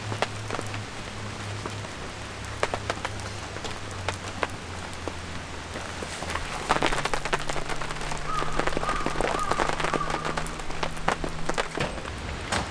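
Autumn rain falling, with many drops tapping sharply on nearby surfaces over a steady hiss, getting somewhat louder about seven seconds in. A low steady hum runs underneath.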